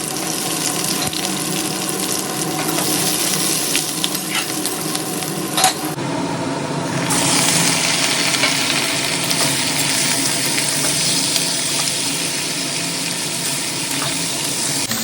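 Hot oil sizzling steadily in a kadai with bay leaves and cumin seeds frying in it, with a single clink of a utensil a little before halfway.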